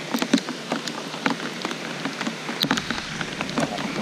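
A downpour: steady rain with many sharp ticks of separate drops landing close by.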